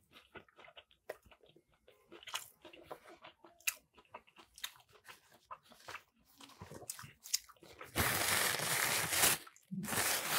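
Close-up chewing of a crispy fried chicken sandwich: soft, scattered crunches and mouth sounds, then a louder stretch of crunching about eight seconds in and again near the end.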